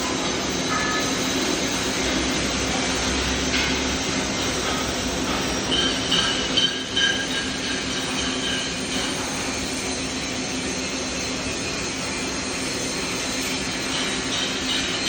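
Welding arc on stainless steel: a steady hiss over a constant hum, with a few brief high tones around the middle.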